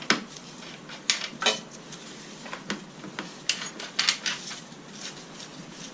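Metal hand tools and motorcycle parts clinking and knocking against each other during chain and sprocket work, a series of irregular sharp metallic clinks.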